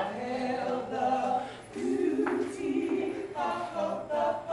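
A small group of voices singing together without instruments, holding long notes.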